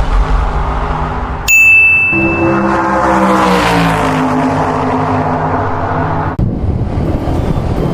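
Motor vehicle engine running, its pitch rising and falling as it is driven, with a single bright ding about a second and a half in. A rougher rumble takes over near the end.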